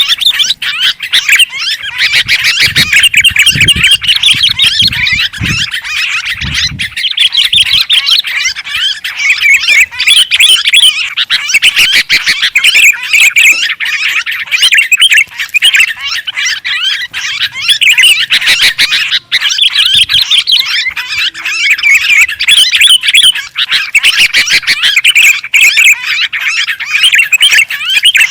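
Sooty-headed and yellow-vented bulbuls in a dense, unbroken chatter of quick chirps and squawks. This is agitated, noisy bulbul calling of the kind used as a lure to draw other birds in.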